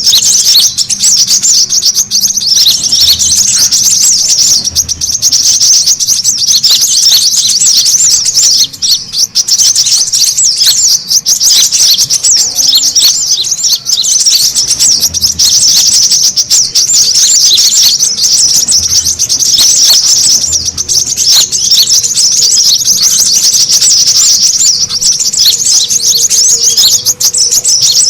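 Brown-throated sunbird (kolibri kelapa) song used as a bird lure. The bird chatters in a fast, dense, high-pitched twittering that runs on without pause, the excited 'ribut' call meant to draw other birds in and set a caged bird singing.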